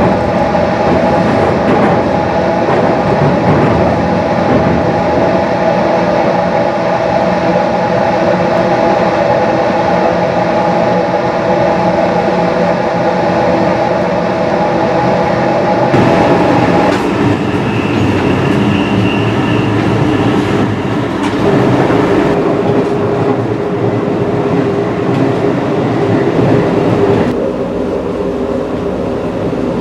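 A JR 215 series double-deck electric train, heard from inside the car while it runs along the line. There is steady wheel-on-rail noise together with tones from the motors and running gear. The tones shift in pitch about halfway through, and the sound gets quieter near the end.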